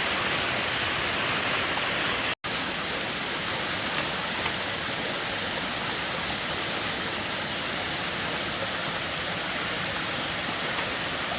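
Steady rushing noise of water, briefly cut to silence about two seconds in.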